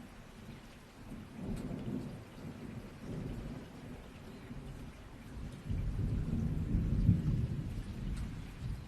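Steady rain falling, with rolling thunder: a low rumble swells briefly about a second and a half in, then a longer, louder rumble builds from a little past the middle to the end.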